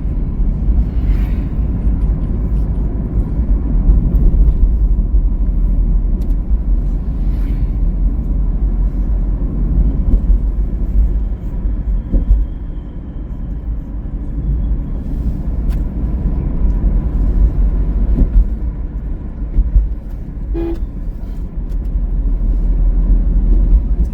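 Steady low road and wind rumble of a car driving on a highway, with one short vehicle horn toot about twenty seconds in.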